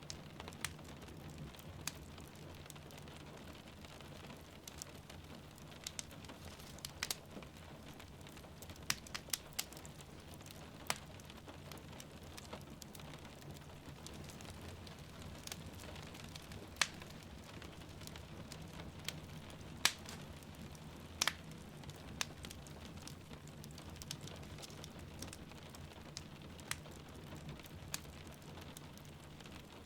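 Steady rain with a wood fire crackling over it, sharp irregular pops standing out every second or two.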